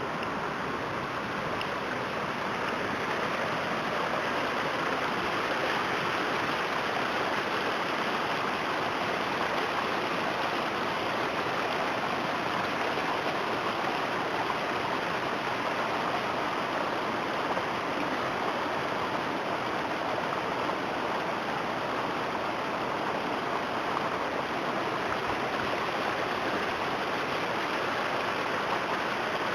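Flash-flood runoff rushing steadily like a stream, with no let-up.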